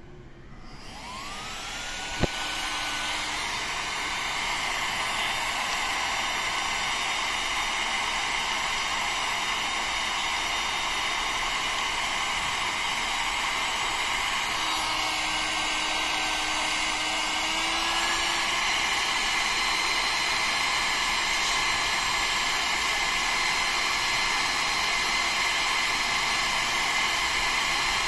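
Electric heat gun switched on: its fan spins up with a rising whine, then blows steadily, airy with a faint whine. There is a single sharp click about two seconds in.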